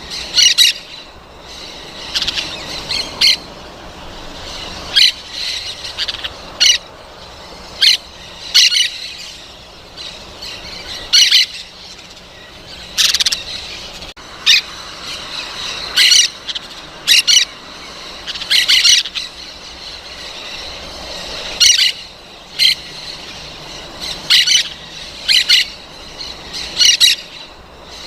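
Parrots squawking: short, harsh calls repeated about once or twice a second, some in quick pairs.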